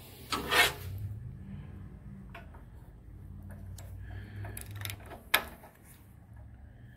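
Socket wrench being worked onto the spark plug of a Honda GX160 engine: a loud metal rattle about half a second in, then scattered ticks and clicks of the ratchet and socket against the engine, with one sharp click about five seconds in. A faint low hum runs underneath.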